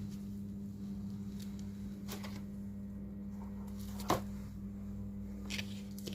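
Steady low electrical hum with a few light clicks and taps of handling a phone and small tools, the loudest about four seconds in.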